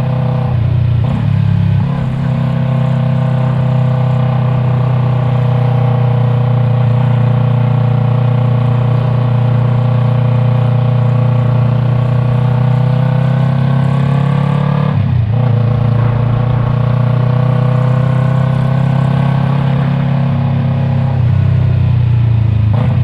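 Yamaha MT-03's parallel-twin engine running through an aftermarket Arashi exhaust while riding. The pitch climbs slowly as the bike pulls, drops sharply about 15 seconds in, then climbs again and drops once more near the end.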